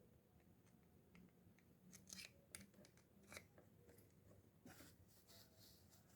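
Near silence with a few faint, irregularly spaced clicks and short scraping sounds.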